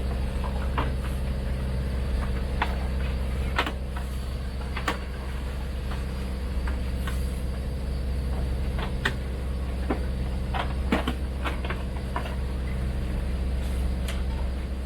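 Sailboat's engine running steadily under way, a low even drone, with scattered light clicks and knocks from the watermaker hoses and capped fittings being packed into their container.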